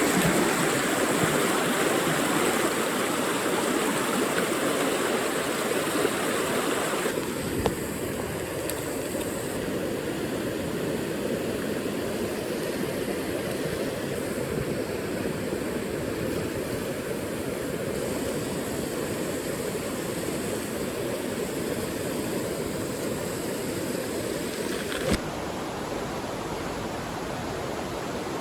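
Mountain stream water rushing over rocks, a steady wash of noise whose tone changes abruptly twice.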